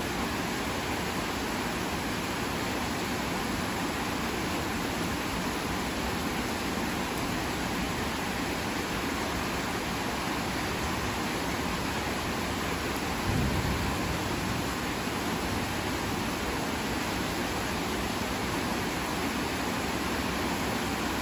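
Heavy rain falling steadily, an even hiss. A brief low thump about two thirds of the way through.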